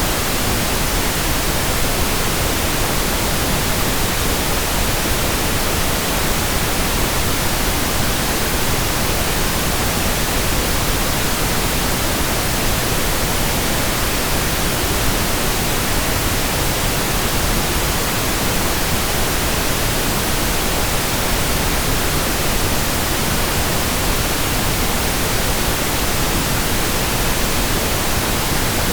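Steady pink noise: an even, unchanging hiss across all pitches with no variation.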